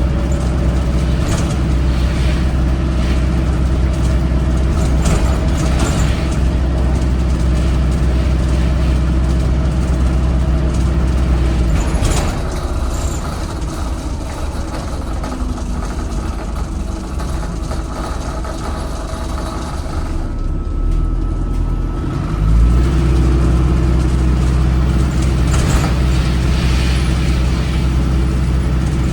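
Cummins ISBe 4.5-litre diesel of an Alexander Dennis Enviro 400 hybrid bus heard from on board, running hard with its loud exhaust. About twelve seconds in it eases off and quietens, then it picks back up with a rising pitch about two-thirds of the way through and runs hard again. Occasional knocks and rattles come through.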